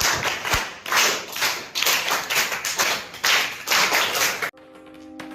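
A group of children clapping along in a rhythm, about two to three claps a second. About four and a half seconds in it cuts off sharply and steady music tones come in, growing louder.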